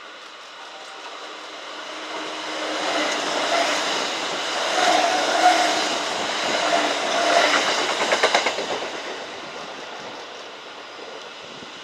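Kintetsu electric train going by on the tracks: the sound builds for a few seconds, is loudest in the middle with a steady motor hum, then a quick run of wheel clacks over the rail joints, and fades away near the end.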